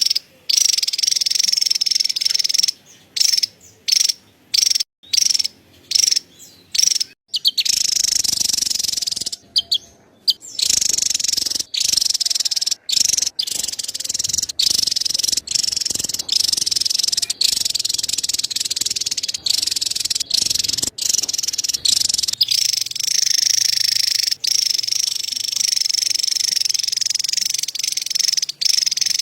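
Javan tesia giving its rapid, high-pitched chattering call, in short bursts at first and then in an almost unbroken run from about ten seconds in.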